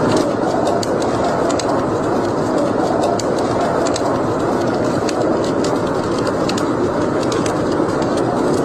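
Fire burning in a fireplace: a steady rushing noise with frequent sharp, irregular crackles.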